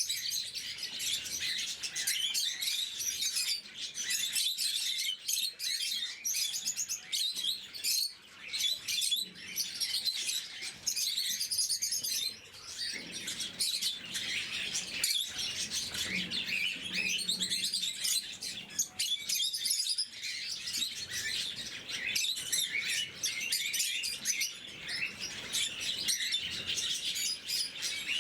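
Lovebirds chattering with a dense, continuous stream of shrill, high-pitched chirps and tweets.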